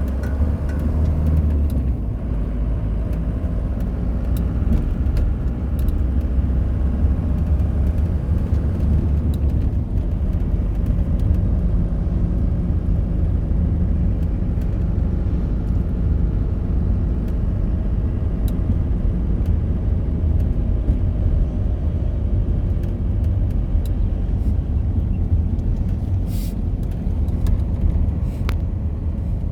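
Steady low rumble of a car running, with no break or sudden change.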